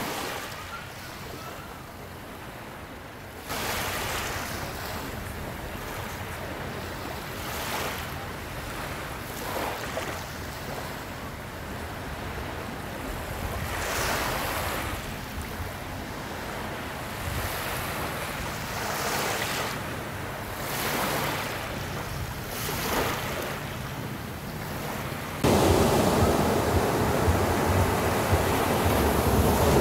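Ocean surf: waves breaking and washing in, in repeated surges every few seconds, with some wind. It jumps suddenly louder twice, once a few seconds in and again near the end.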